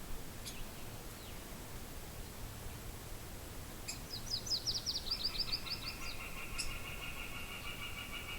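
Wild songbirds calling over a low wind rumble: a few short chips, then about four seconds in a fast run of about fifteen high notes stepping slightly down in pitch. Near the end of that run, a steady pulsing trill on two lower pitches begins and carries on.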